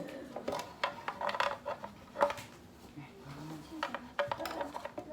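Light clicks and taps of small plastic toy parts being handled and fitted together, scattered irregularly.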